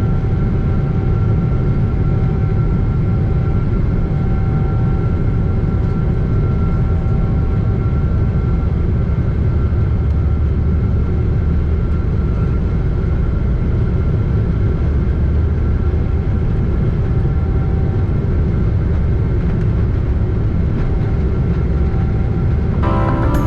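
Steady low rumble of a Boeing 777-200ER heard from inside the passenger cabin, with a few faint steady whining tones above it. Music comes in at the very end.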